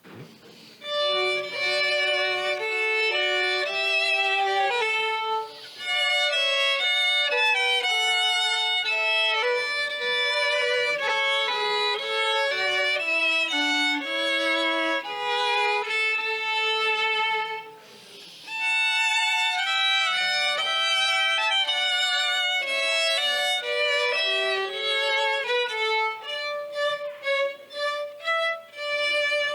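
Instrumental music: a single melody line of held notes with vibrato, which breaks off briefly twice.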